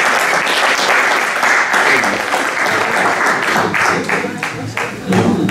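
Audience applauding, a dense patter of many hands that thins to scattered separate claps over the last couple of seconds, with voices coming in near the end.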